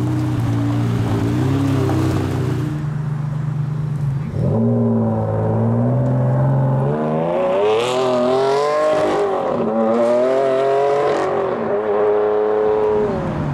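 A supercar engine idles for the first few seconds. Then a Ferrari Enzo's V12 pulls away and accelerates hard, its pitch climbing and dropping several times as it shifts up, before settling as the car draws off into the distance.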